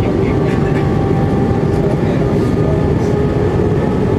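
Steady in-flight aircraft cabin noise: engine drone and rushing air, with a constant hum of a few steady tones.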